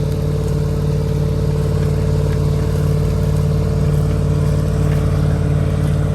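Massey Ferguson 4840's V8 diesel engine running steadily at a constant pitch.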